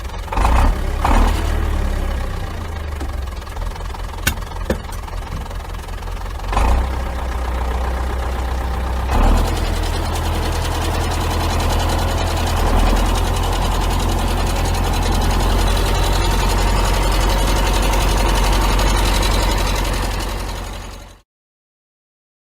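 An engine running with a deep, steady rumble, with a few brief surges in the first half and louder, even running after about nine seconds, cutting off abruptly near the end.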